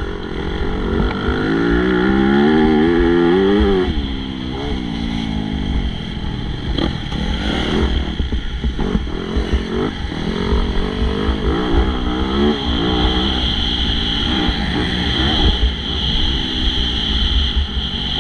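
Motocross bikes racing, engines revving up and down as they accelerate and shut off, loudest in the first few seconds as a bike climbs in pitch.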